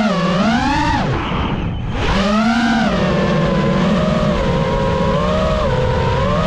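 A 5-inch freestyle FPV quadcopter's motors and propellers whine, the pitch swooping up and down with the throttle. The pitch drops away about a second in, rises again about two seconds in, and then holds a fairly steady pitch.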